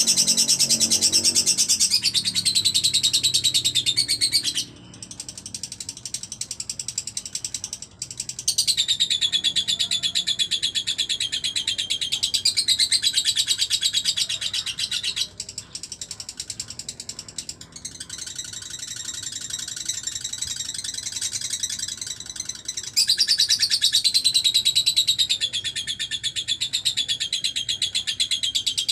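Lovebird singing its long chattering 'ngekek' song: very rapid, high trills in bouts of several seconds with brief breaks, the loudest bouts starting higher and dropping in pitch.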